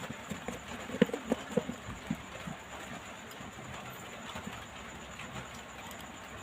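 A handful of light, irregular clicks and taps as a smartphone is handled and worked on with small tools, bunched in the first couple of seconds, then only faint steady background noise.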